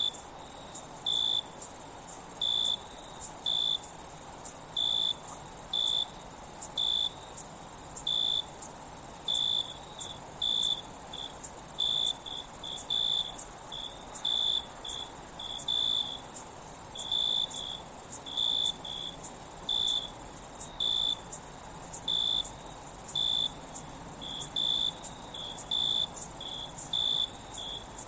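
Night insect chorus: a steady, very high-pitched trill with crickets chirping over it about once a second, sometimes in quick pairs.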